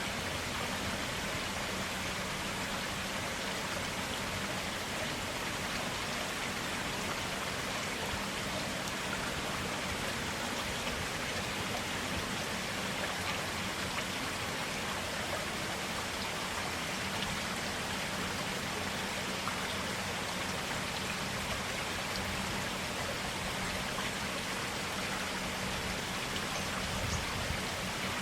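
Clear stream water flowing steadily, an even, unbroken rush of water.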